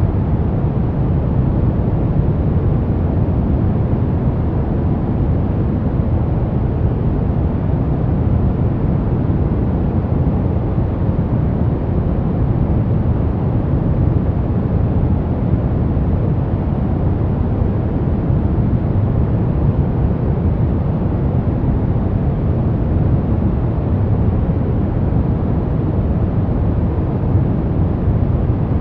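Steady synthetic sleep noise, a constant deep rushing hiss that is heaviest in the bass and dull in the treble, with no change or break.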